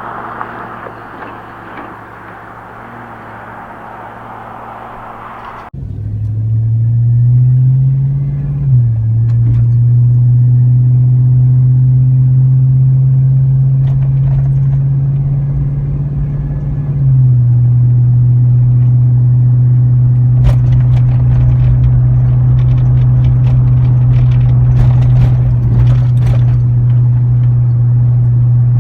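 Truck's 5.3L V8 heard inside the cab through a Cherry Bomb straight-through muffler, pulling under load with a loud, steady low drone. About six seconds in, after quieter road noise, the engine note comes in, climbs, drops with an upshift about nine seconds in, then holds steady, with a few light clicks and rattles near the end.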